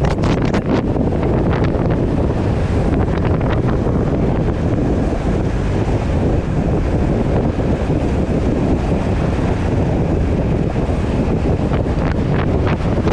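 Wind rushing hard over the microphone of a mountain bike at speed on a downhill run, over a steady low rumble. Bursts of sharp knocks and rattles come in the first couple of seconds and again near the end.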